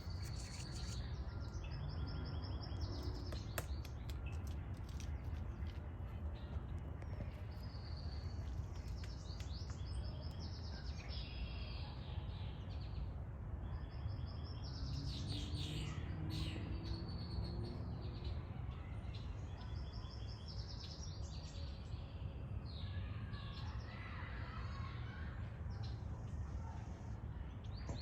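Songbirds calling outdoors, short bursts of quickly repeated high chirps and trills one after another, over a steady low background rumble.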